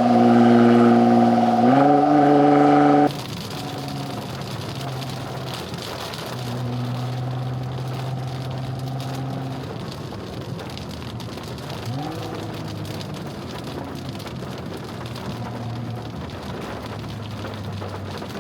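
Nissan GT-R R35's twin-turbo V6 running loudly under load, its pitch rising about two seconds in, then cutting suddenly to a quieter steady drone under a hiss of road noise. Brief rises in revs come about twelve seconds in and again near the end.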